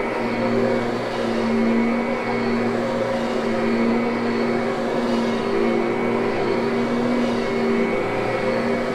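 Kirby upright vacuum cleaner running steadily, its motor giving a constant hum as it vacuums carpet.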